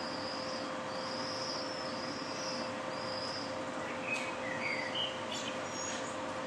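Birds calling over a steady bed of city traffic noise: long, thin, high whistled notes through the first half, then a few shorter, lower chirps and clicks. A steady hum runs underneath.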